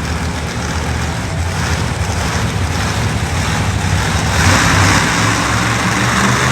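Monster truck engine running loud during a wheelie run, with a broad rush growing louder about four and a half seconds in.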